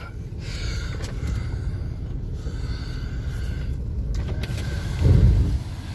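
A 1989 Chevy S10 Blazer's power window motor whining steadily for about four seconds as a window moves, over the 4.3 V6 idling. A low thump follows about five seconds in.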